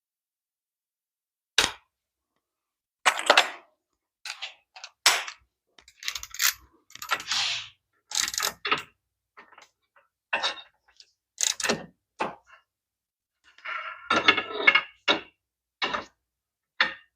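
Scattered metal knocks, clinks and clanks of hand tools and parts being handled at a car's wheel, with a short rattling clatter near the end.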